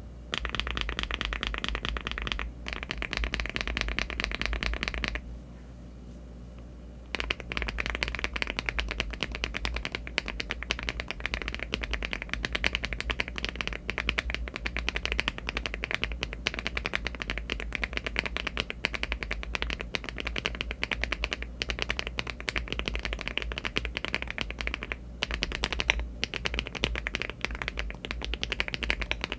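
Mechanical keyboard typing: a LEOBOG Hi75 aluminium-case keyboard with HMX Jammy switches and Cherry-profile keycaps, keys struck in quick, continuous runs. It pauses for about two seconds roughly five seconds in, then the typing resumes and carries on.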